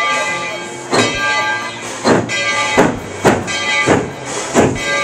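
Narrow-gauge steam locomotive pulling away: exhaust chuffs coming closer together as it picks up speed, with its bell ringing over them.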